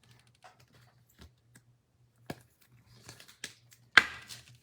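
Trading cards and foil pack wrappers being handled: scattered soft clicks and crinkles, with a sharp click about four seconds in followed by a short rustle.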